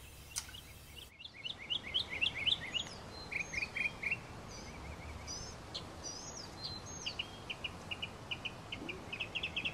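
Songbirds singing: runs of quick repeated chirps, about four or five a second, with scattered higher slurred whistles, over a steady outdoor hiss.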